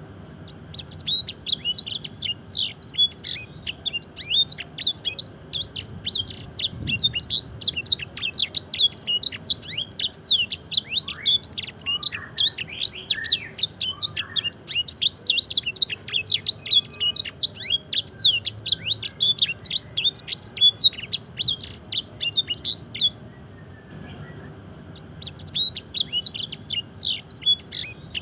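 Canary singing a long, fast run of rapid chirps and trills in blackthroat-style phrases. It starts about a second in, breaks off for a couple of seconds near the end, then starts again.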